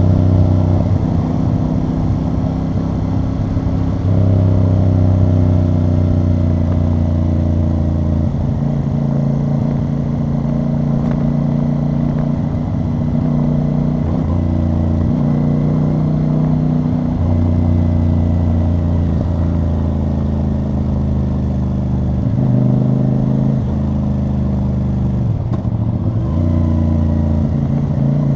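CF Moto CL-C 450 motorcycle's parallel-twin engine and exhaust under way, its note rising and falling several times as the throttle is opened and closed.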